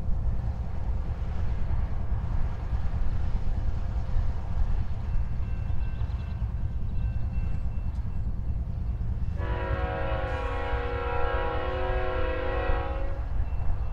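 BNSF freight train's diesel locomotives rumbling low and steady. About nine and a half seconds in comes one long blast of a multi-chime locomotive air horn, lasting about three and a half seconds.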